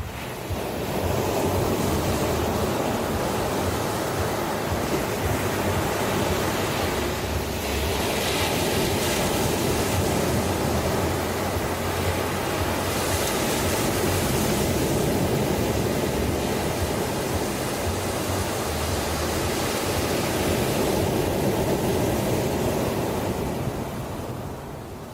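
Ocean surf washing onto a shore: a continuous rushing wash of waves that swells up about a second in and eases off near the end.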